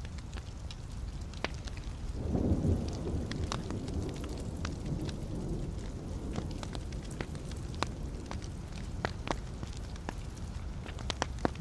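Wood fire in a fireplace crackling and popping, with scattered sharp snaps. About two seconds in, a louder low rumble swells up and fades away over a few seconds.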